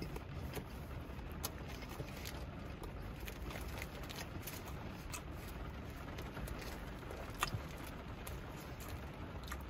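Steady rain on the roof of a parked car, heard from inside the cabin, with scattered sharp ticks of drops, under soft closed-mouth chewing of a burger.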